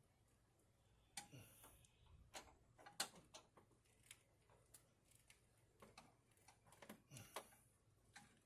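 Faint, scattered clicks and metallic ticks of a 1/4-inch-drive ratchet and socket working a hose clamp, with a few sharper clicks about a second in, around three seconds in and near seven seconds.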